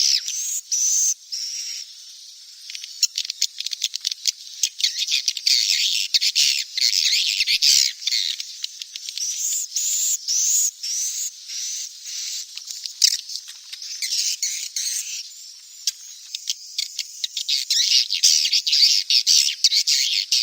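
Recording of swiftlet chicks calling, the kind played to lure swiftlets into nest houses. A dense, high-pitched twittering chorus shot through with rapid clicks, unbroken and shifting in loudness throughout.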